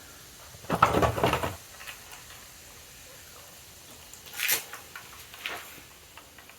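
Handling noises from hands working on a motorcycle: a rustling scrape about a second in, a sharper scrape or clatter around four and a half seconds, then a few light ticks.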